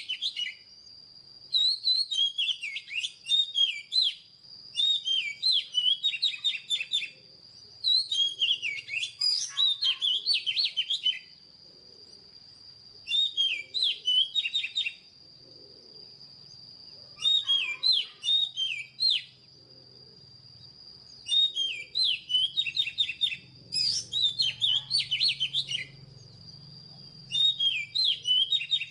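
Oriental magpie-robin song: short bursts of quick, varied whistles and trills, repeated about every three seconds with short pauses between them, over a steady high-pitched whine.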